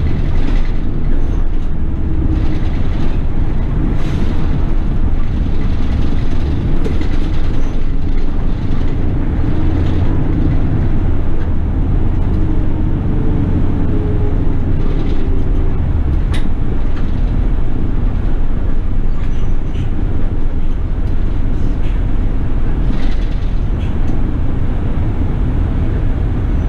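City bus engine running steadily, heard from inside the bus, with a few short clicks and rattles.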